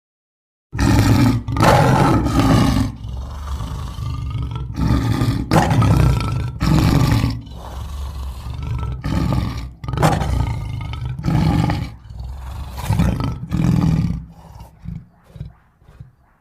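Big-cat roar and growl sound effects voicing a cartoon mountain lion: about a dozen short roars and snarls in quick succession, starting just under a second in, then trailing off into brief grunts near the end.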